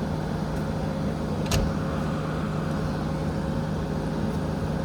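JCB 3DX backhoe loader's diesel engine running steadily at working speed, with a single sharp knock about a second and a half in.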